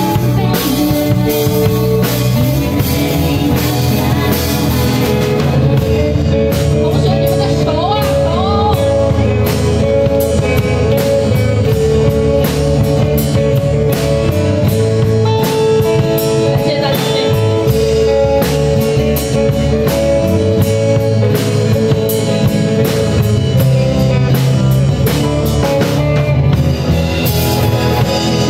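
A live band playing a song with drum kit and guitar, with drum beats throughout.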